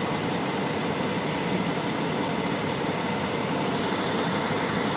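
Steady mechanical hum and air rush inside a semi-truck's cab, even and unchanging.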